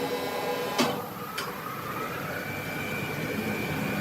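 Sawmill machinery running with a steady mechanical hum. A sharp knock comes about a second in and a smaller one just after, then a whine rises in pitch and holds.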